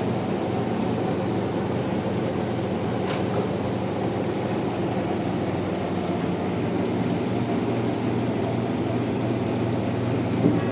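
Sawmill machinery running with a steady low drone, with a brief knock near the end.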